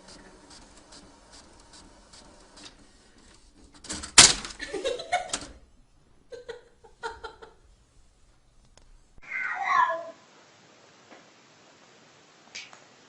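A sharp knock about four seconds in, followed by a cat's meows. Later, in a different recording, a cat gives one meow that falls in pitch.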